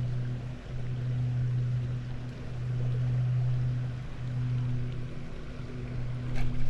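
A small motor humming steadily at a low pitch, dipping briefly a few times.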